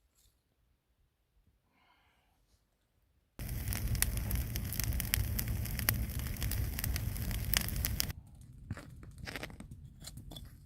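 River ice crunching and scraping as a fishing hole is cut through it. A dense run of crunching starts abruptly about three seconds in and stops suddenly some five seconds later, followed by scattered single crunches.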